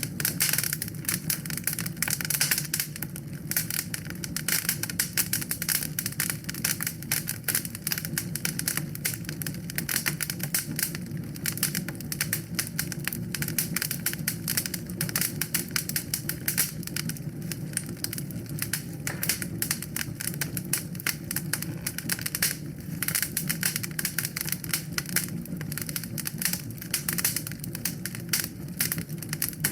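Wood fire crackling in a fireplace: a dense, irregular stream of small pops and snaps over a steady low rumble from the flames.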